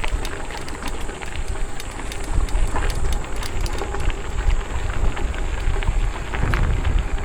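Wind rumbling on the microphone with crackling and rattling from an electric mountain bike's tyres over a rough dirt trail.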